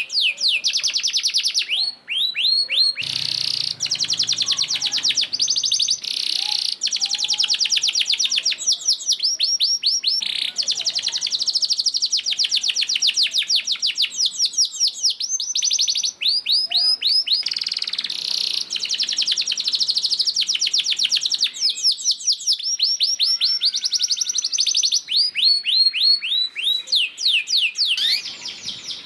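A domestic canary singing: fast strings of rapid repeated high notes running into long unbroken trills, with a few short breaks.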